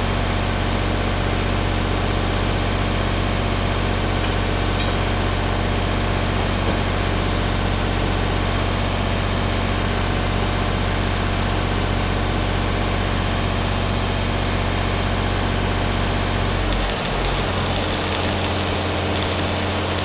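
MIG welder running a bead on a steel tractor lift arm: a steady hiss over a low electrical hum. The sound changes about 17 seconds in, when the low hum drops away and the hiss turns brighter.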